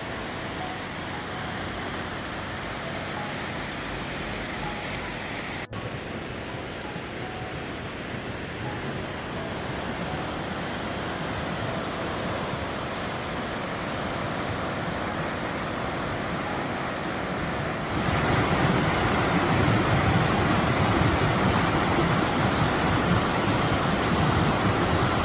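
Steady rush of water from a waterfall, an even hiss-like noise with a brief break about six seconds in, then louder and fuller about three-quarters of the way through.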